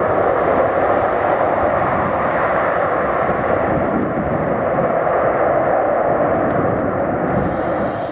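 Loud, steady jet noise from a Panavia Tornado GR4's twin RB199 turbofan engines. It eases slightly and then stops suddenly at the very end.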